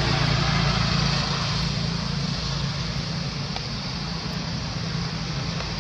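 A motor vehicle engine idling steadily: a low hum under a steady hiss.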